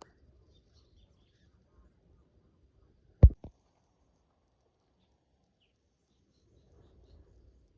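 A sharp knock followed almost at once by a second, softer one, over faint low background noise.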